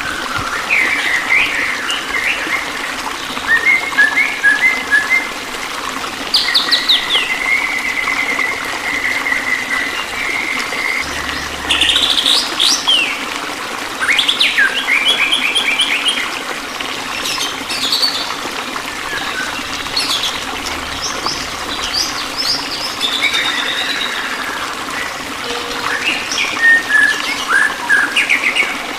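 Several songbirds chirping, trilling and whistling in short overlapping phrases, some as quick runs of repeated notes, over a steady hiss of running water.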